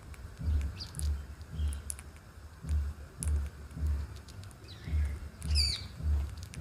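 Small birds giving short high chirps, with one quick warbling call about five and a half seconds in, over a regular low thumping that comes in groups of three.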